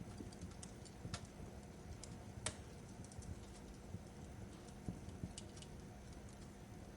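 Wood fire crackling over a low steady rumble, with irregular sharp pops and snaps; two are louder, about a second in and midway.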